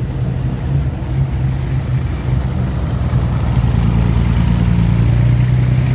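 Six-wheel truck's diesel engine running under load as it tries to reverse on slippery wet ground, a steady drone that grows a little louder about halfway through.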